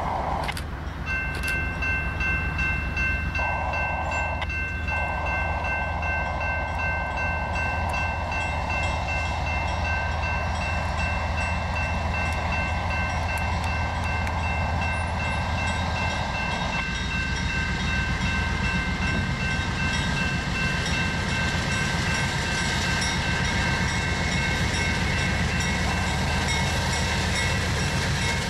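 Grade-crossing warning bells start ringing about a second in and keep ringing as a diesel freight train approaches, its locomotives giving a low rumble. The lead locomotive's horn sounds for the crossing in long blasts, the last held until about two-thirds of the way through.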